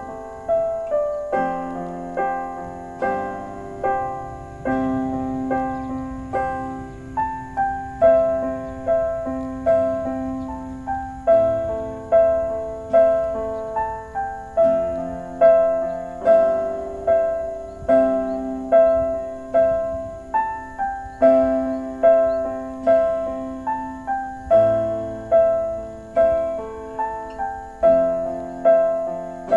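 Background piano music: a gentle melody of evenly struck notes, each fading after it is played.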